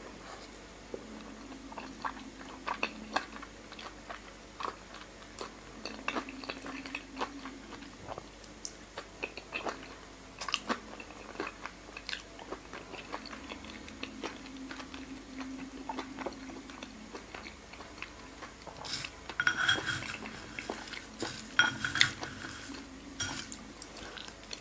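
Close-miked chewing of soy-marinated raw salmon, with many small wet mouth clicks. A few louder clicks and clatters come near the end.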